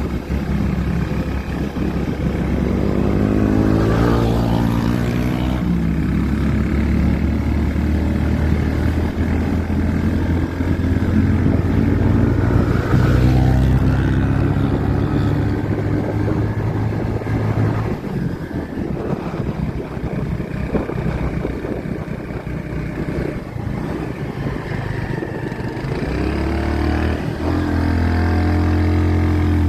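Motorcycle engine running under way, revving up and dropping back a few times as the rider changes speed.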